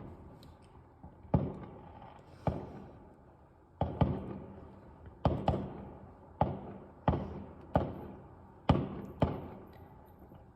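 Fireworks going off: about ten sharp bangs at irregular intervals, each fading away in a short rolling echo.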